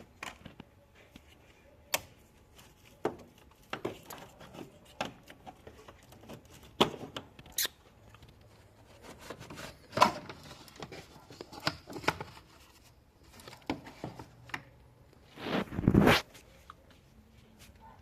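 Scattered clicks, knocks and short scrapes of objects being handled, with a longer, louder scraping rustle near the end.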